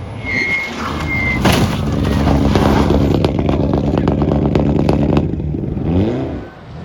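Rally car engine at full throttle, held at a steady high pitch with sharp crackling pops, cutting off abruptly about five seconds in; shortly after, a few quick revs rise in pitch.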